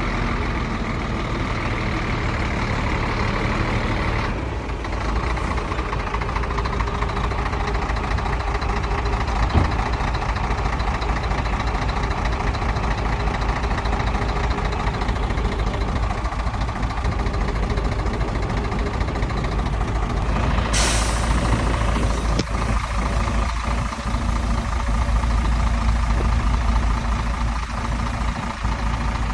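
Heavy diesel engines of earthmoving machinery, a dump truck and a bulldozer, running steadily under work. A short burst of air hiss comes about 21 seconds in.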